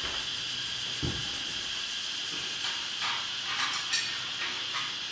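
Food sizzling in a hot pan with a steady hiss, a dull thump about a second in, and a few light utensil knocks and scrapes against the pan in the second half.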